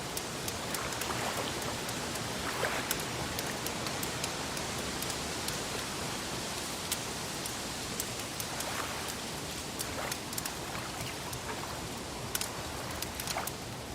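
Wood fire crackling, with scattered sharp pops and ticks over a steady hiss of gently lapping water. A few soft swashes of water come and go.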